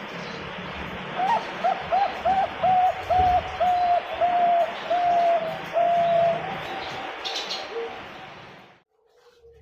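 Zebra dove (Bangkok-strain perkutut) singing: a run of about a dozen coos at one pitch, short and quick at first, then longer and evenly spaced. A steady hiss lies under them and cuts off abruptly near the end.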